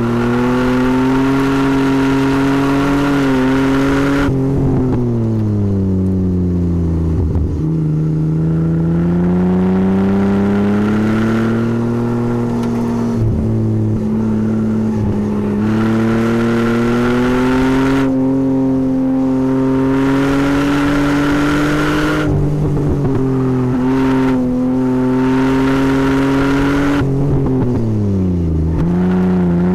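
Chevrolet Omega 3.0's straight-six engine driven hard on a race track. The revs climb, then fall away slowly several times, with short dips in pitch at the gear changes.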